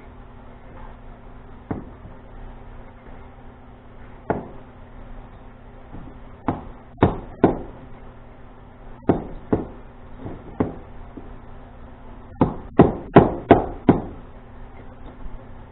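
Hard knocks and taps during hand work on a come-along cable repair. They come singly at first, then in small groups of two or three, and end with a run of five quick strikes, the loudest of all.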